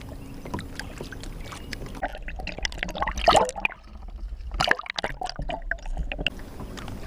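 Water splashing and dripping, with small knocks and clicks, as a hooked small smallmouth bass is fought up to the side of a kayak. The two loudest splashes come about three seconds and about four and a half seconds in.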